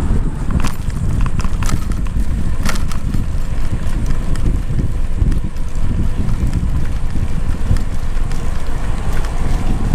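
Wind buffeting the microphone during a bicycle ride, a loud low rumble that rises and falls. A few sharp clicks come about one to three seconds in.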